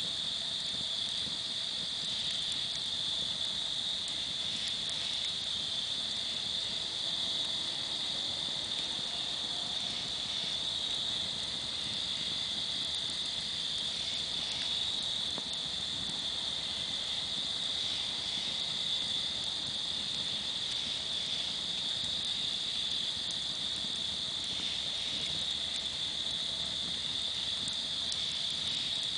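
A steady, high chorus of crickets, with a campfire crackling underneath and giving a few faint pops.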